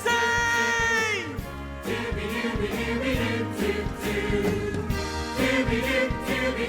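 Upbeat pop song with a steady beat and bass, and an ensemble of voices singing backing harmonies. A held vocal chord slides down in pitch about a second in.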